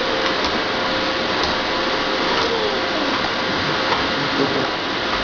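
Vacuum cleaner running steadily, an even rushing noise with a faint steady whine.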